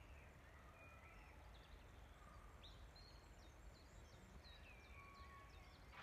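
Faint birdsong from several birds, with whistled notes and a quick run of short high notes through the middle, over a low steady rumble.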